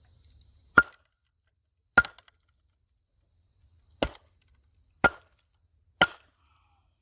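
Wood cracking: five sharp, short cracks. There is a pause after the first two, then the last three come about a second apart.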